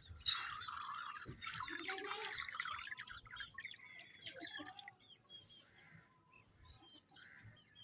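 Vaccine solution squirted from a syringe into chickens' drinking water, trickling and dripping, most densely in the first three seconds and then only faint drips.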